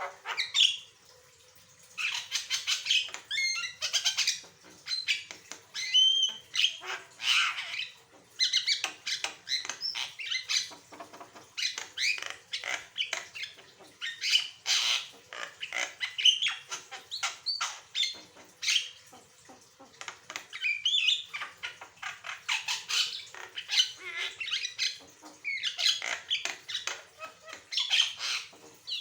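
Javan myna (jalak kebo) singing in full, varied song: a rapid stream of harsh chattering, clicks and squawks mixed with short whistled notes, broken only by a short pause about a second in.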